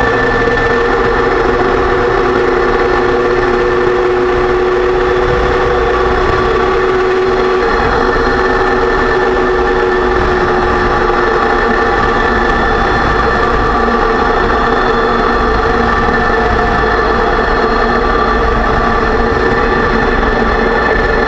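2006 Range Rover Sport drivetrain running with a steady, loud whine over a continuous rumble, coming from the freshly rebuilt differential. The owner suspects the pinion bearing preload was set too high.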